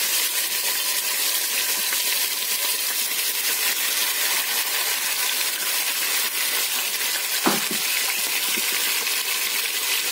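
Diced raw chicken breast sizzling and crackling steadily in hot oil in a frying pan, just after going in. A single knock comes about seven and a half seconds in.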